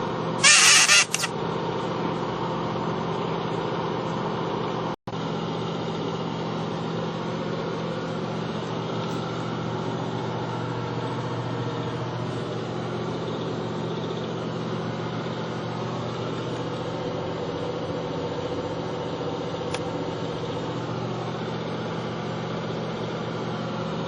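A steady machine hum, with a brief loud hiss about half a second in.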